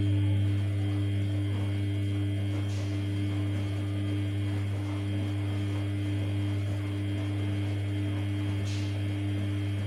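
Samsung P1271 washing machine giving a steady, loud, low electric hum, with no change in pitch.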